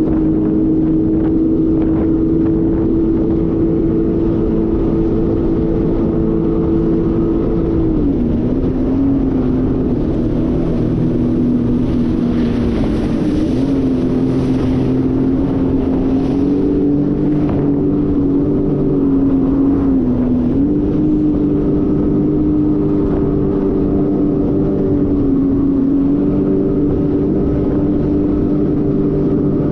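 Jet ski engine running at speed with a steady drone; its pitch drops a few times for a second or two as the throttle is eased, then settles again.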